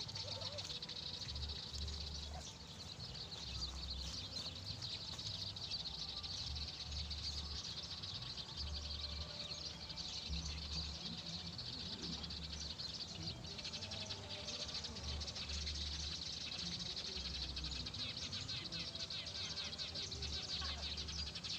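Rice-field ambience: a steady, high-pitched chorus of fast-pulsing insects, with occasional bird chirps and an intermittent low rumble.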